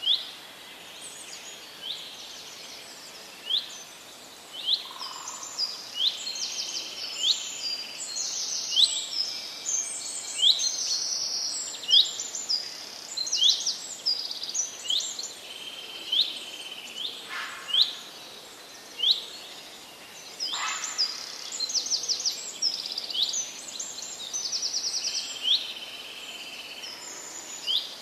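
Birds chirping and calling: many short, sharply rising chirps and quick trills, one or two a second, over a steady background hiss.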